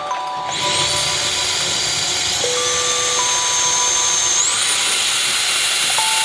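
Polaris PVCS 7090 cordless stick vacuum's motor spinning up to a high whine about half a second in. The whine steps up in pitch twice as the power level is raised. Background music plays along with it.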